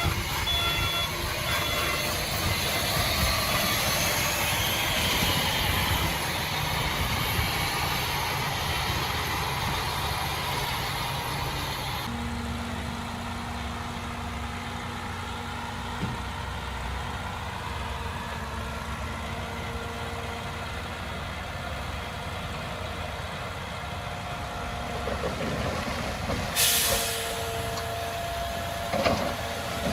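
Diesel engines of heavy earthmoving machines running steadily, with an abrupt change in the sound about twelve seconds in. Near the end there is a short hiss.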